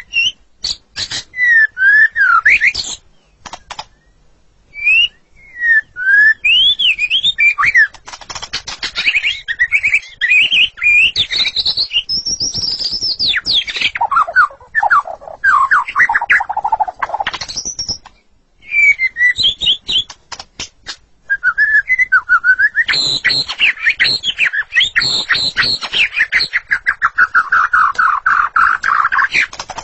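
White-rumped shama singing loudly in varied whistled phrases with short pauses. In the last third it breaks into a long run of rapid repeated notes.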